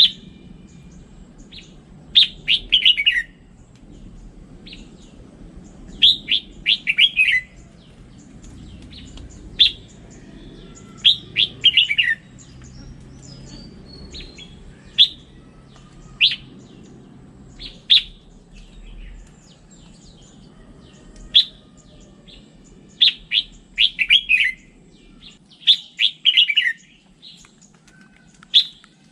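Red-whiskered bulbul singing: short phrases of quick, clear whistled notes, several of them falling in pitch, repeated every second or two.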